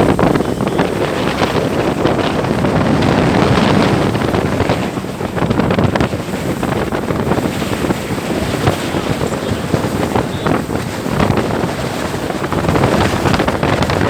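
Heavy wind buffeting the microphone, with water rushing and splashing, aboard a motorboat under way.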